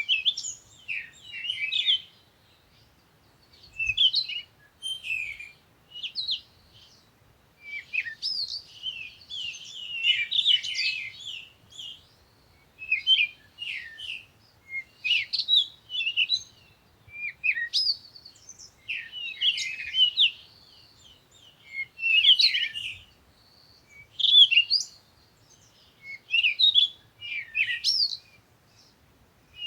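Songbirds singing: quick chirps and trilled phrases, each a second or two long, with short pauses between.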